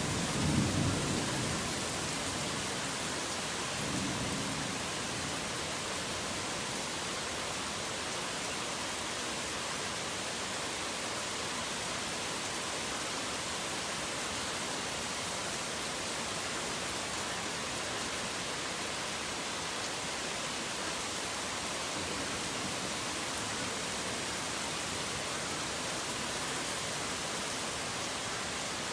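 Steady heavy rain hissing, with the tail of a low thunder rumble fading in the first second or two and a fainter rumble about four seconds in.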